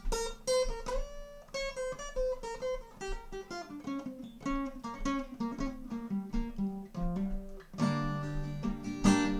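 Acoustic guitar playing an instrumental break in a song: a quick run of single plucked notes, then fuller strummed chords near the end.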